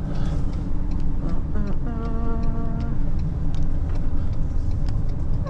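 Truck engine running as it backs up slowly, a steady low rumble, with a brief steady tone about two seconds in.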